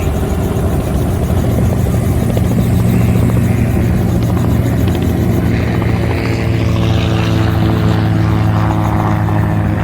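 Aircraft engine droning steadily at close range, a low engine hum that holds its pitch and grows fuller in its upper tones about halfway through.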